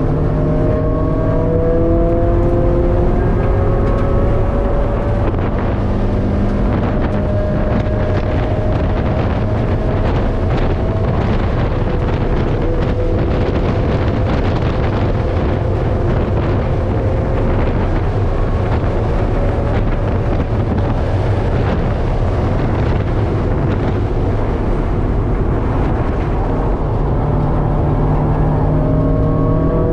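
Mazda Miata's 1.6-litre four-cylinder engine driven hard on track, heard from inside the cabin, its pitch climbing over the first few seconds. Then loud wind and road noise cover it at speed, and it climbs again near the end.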